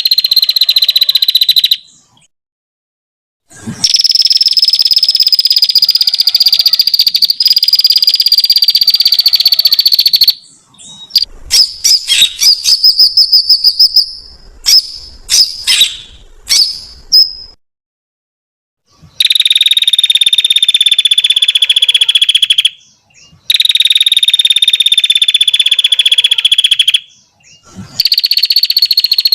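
Recorded small-songbird masteran (training song) playing. Long, steady, high-pitched buzzing trills each hold for several seconds, broken by short gaps. In the middle, a run of rapid, separate chirping notes replaces the trills.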